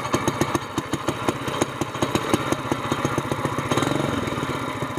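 Mud motor's GX200-type single-cylinder four-stroke engine running just after being pull-started on choke, firing in quick regular beats through a short exhaust pipe with a screw-in muffler.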